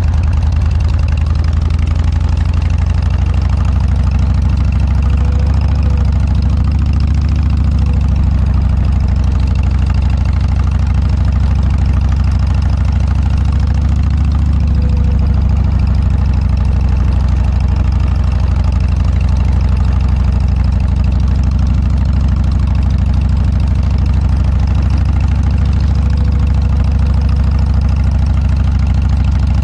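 Harley-Davidson Dyna's V-twin running steadily at low revs through an aftermarket Motorstage muffler, a deep, loud exhaust note with no revving.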